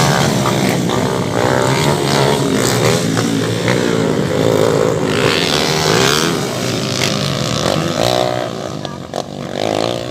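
Several motocross motorcycles of the pan-tricycle class racing, their engines revving up and down as they ride the track. The engine sound dips briefly near the end.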